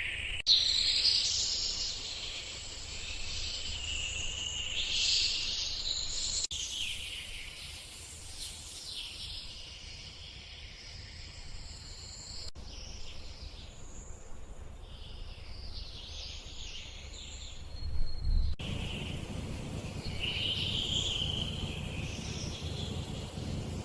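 Forest ambience: insects and birds calling in a high, shifting chorus over a low rumble, broken by abrupt cuts about every six seconds where one stretch of recording gives way to another.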